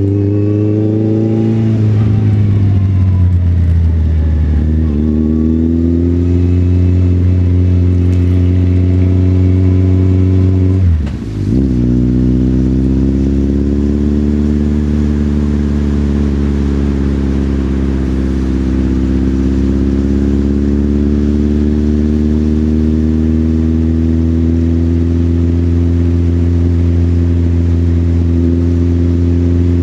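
Motorcycle engine running under way, its note rising and falling with the throttle over the first several seconds. About eleven seconds in it drops briefly and comes back, then holds a steadier cruising note.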